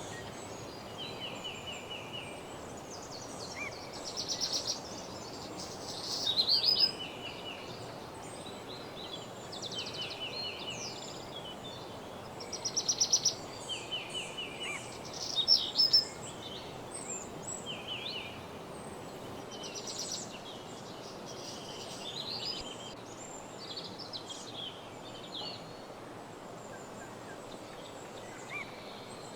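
A chorus of several songbirds singing, with short rapid trills and chirps from more than one bird, busiest and loudest in the first half. Under them runs a steady background hiss.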